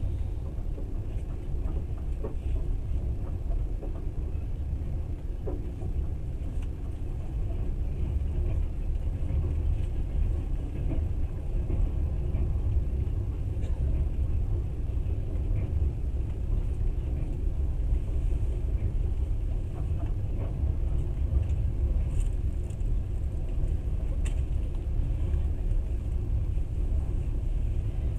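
Moving train running with a steady low rumble, with faint scattered ticks above it.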